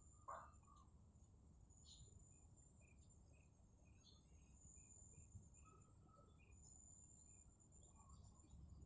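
Faint birdsong and insects: a short chirp repeats about twice a second, with one brief louder call just after the start, over a steady high insect whine and low rumble.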